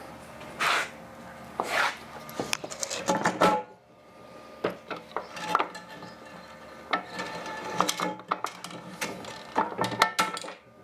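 Metal machine parts being handled and fitted on a surface grinder: a run of irregular clinks and knocks with short scraping and rubbing sounds.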